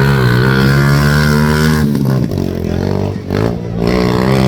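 Motorcycle engine of a racing tricycle running hard under throttle, dropping off briefly about halfway through, then picking back up near the end.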